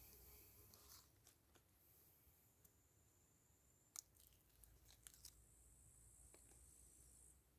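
Near silence with a few faint, sharp clicks, the clearest about four seconds in.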